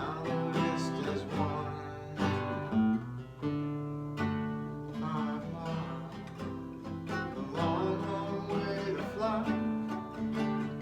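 Nylon-string acoustic guitar (a Japanese-made Lyle) played in an instrumental passage, with strummed chords and picked notes.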